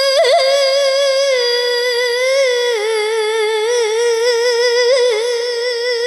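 A woman reciting the Qur'an in the melodic qiroah (tilawah) style, holding one long, high, ornamented note with quavering turns. The pitch steps down about three seconds in.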